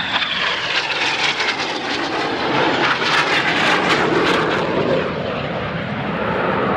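Two BAE Hawk T1 jets of the Red Arrows Synchro pair flying low and fast through a turning manoeuvre, their Adour turbofans a loud jet roar. A high whine falls in pitch in the first second or two, and the roar is loudest a little past the middle.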